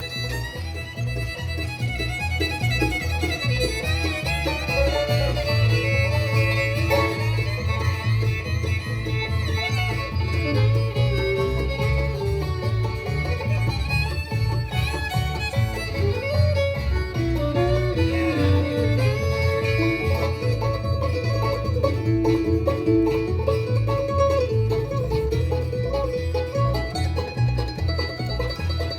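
Live bluegrass band playing an instrumental, with a fiddle carrying a bending melody over banjo, guitar and a steady bass rhythm.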